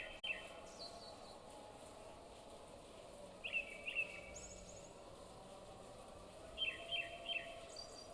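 A bird chirping in groups of two or three quick chirps, one group about every three seconds, with fainter, higher calls in between, over steady background noise.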